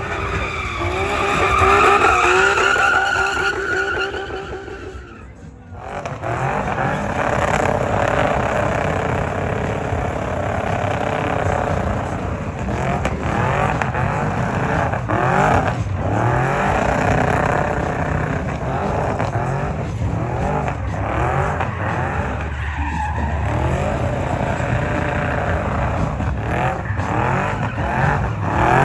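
Vehicle engine revved hard again and again, its pitch climbing and falling, over the hiss of tyres squealing. The sound briefly drops away about five seconds in, then carries on.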